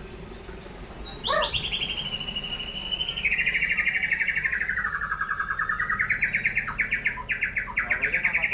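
White-rumped shama (murai batu) singing one long, fast rattling trill from about a second in, dipping lower in pitch midway and rising again toward the end.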